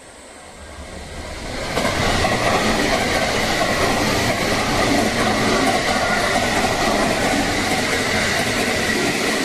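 JR West Biwako Line local electric multiple-unit train running past the platform. It builds over about two seconds to a steady loud rush of wheels on rail, with a thin steady high whine running through it.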